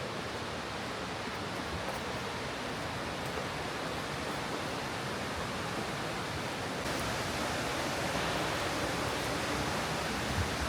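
Steady rush of flowing water from a waterfall or stream, a little louder from about two-thirds of the way in.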